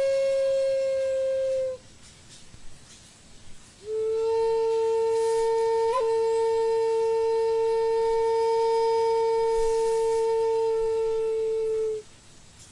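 A flute-like wind instrument holding long single notes: one note ends just under two seconds in, and after a short pause a slightly lower note is held steady for about eight seconds.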